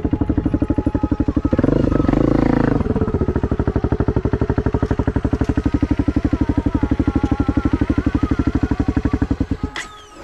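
An engine running with a fast, even pulse. It swells briefly about two seconds in, then cuts off abruptly near the end.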